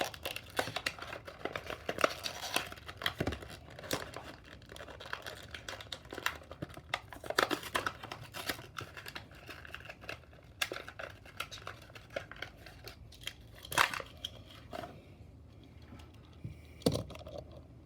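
Plastic blister packaging and cardboard backing of a die-cast toy car crinkling and tearing as it is handled and opened, with irregular clicks and a few louder snaps.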